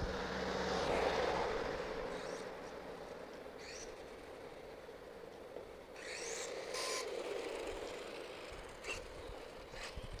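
An HPI Savage XS Flux mini monster truck, a brushless electric RC truck, running on the street. Its motor and tyres get louder about a second in and again around six seconds as it passes.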